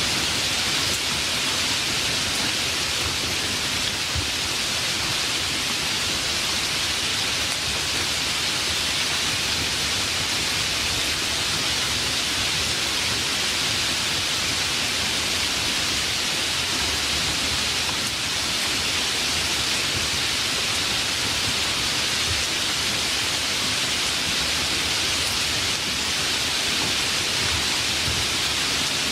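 Steady, even rain falling, a continuous hiss with no distinct drops or thunder standing out.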